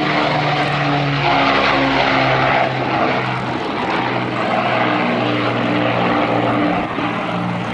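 Avro Lancaster bomber's four Rolls-Royce Merlin V12 engines running in flight, a steady multi-toned engine sound.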